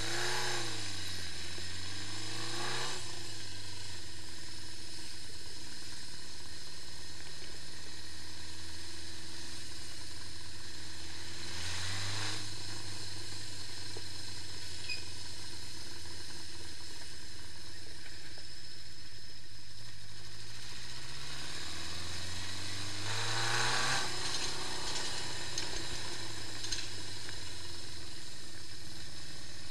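Honda CB550 Four's air-cooled inline-four engine running steadily, its revs rising and falling three times.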